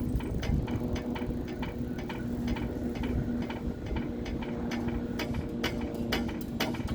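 Sharp irregular clicks and taps from a hand-shaken railroad crossing bell (a US&S teardrop bell), its striker knocking lightly without a full ring. The clicks come faster in the last couple of seconds, over a steady low hum.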